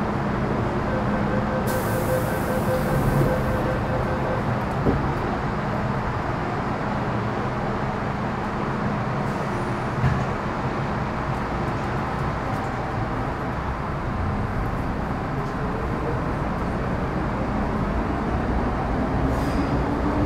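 Metro Cammell M-Train electric multiple unit with GEC GTO chopper traction, heard from inside the car while running: a steady rumble of wheels and traction gear with steady chopper tones. Near the end a motor whine rises in pitch as the train gathers speed. A brief hiss comes about two seconds in.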